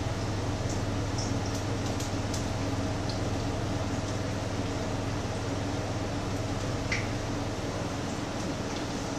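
Patties frying in a pan: a steady sizzle with a few small scattered pops, over a low steady hum.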